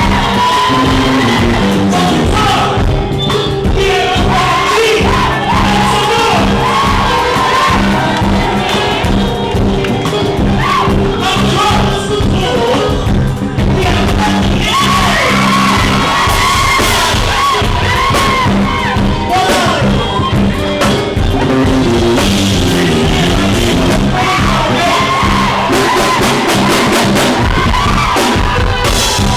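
Live band playing loudly, with singing and shouted vocals over it.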